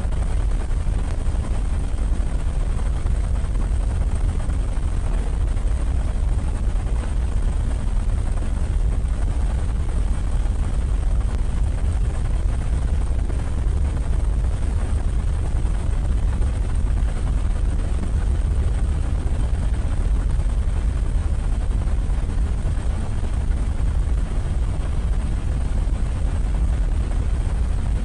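Helicopter running steadily, a constant low rumble with no change in loudness.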